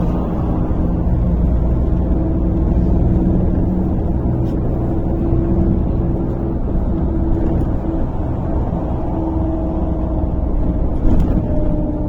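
Cabin noise of a MAZ-103 city bus under way: a steady engine and drivetrain drone with road noise. Near the end a whine falls in pitch as the bus slows for a stop, and there is one brief knock about eleven seconds in.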